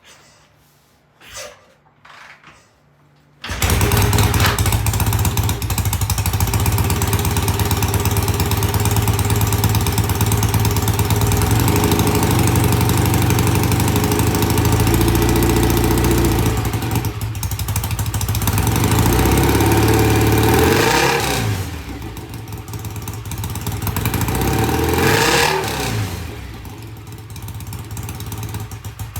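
BSA A65 650 cc parallel-twin engine cold-starting on freshly cleaned carburettors: it catches suddenly about three and a half seconds in and runs, with the revs rising and falling a couple of times, then cuts out at the very end.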